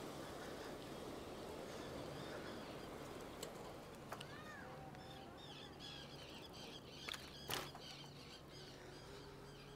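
Small birds chirping in quick series from about halfway through, over a steady outdoor background of wind and rolling noise, with a few sharp clicks.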